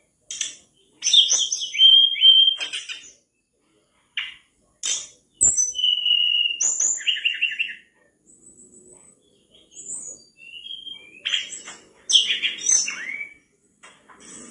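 Tledekan bakau (sikatan bakau, a mangrove flycatcher) singing hard in three quick bursts of high chirps, short whistles and trills, with short pauses between them.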